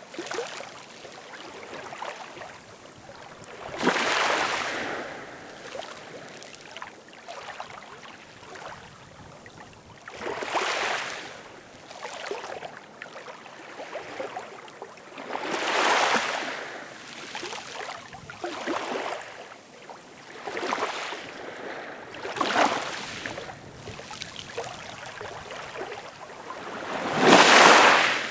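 Ocean waves breaking, with a steady wash of water between them. A wave swells up about every five to six seconds, and the loudest comes near the end.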